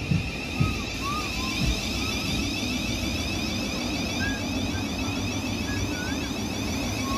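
South Western Railway Class 707 electric multiple unit moving along the platform: a steady rumble and hiss of wheels on rails, with a high electric whine from its traction equipment throughout. A few low thumps come in the first two seconds.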